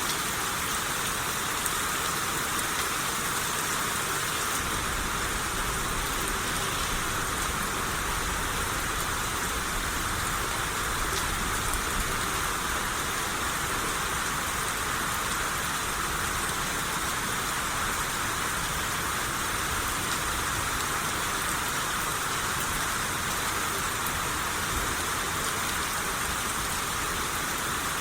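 Steady rain shower falling on surfaces, an even hiss of many drops.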